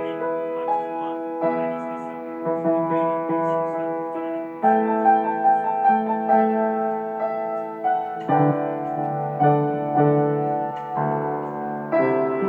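Slow piano music: sustained chords, each held for one to two seconds before the next is struck.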